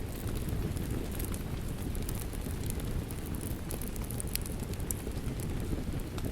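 Wood fire in a fireplace crackling, with irregular sharp pops over a steady low rumble, and rain falling.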